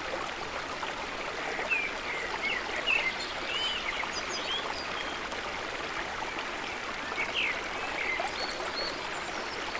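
Running water with birds chirping over it, in many short calls.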